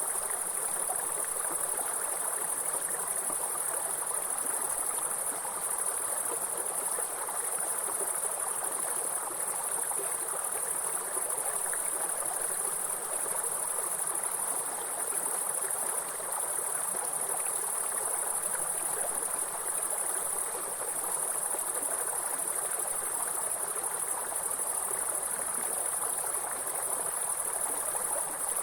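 Insects, such as grasshoppers or crickets, trilling without pause in a high steady band over the steady rushing of a stream or small waterfall.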